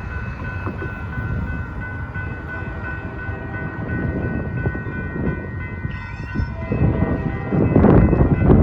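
Union Pacific freight train at a grade crossing, its locomotives and cars rumbling, with steady high tones over it throughout. The rumble grows much louder near the end as the train comes close.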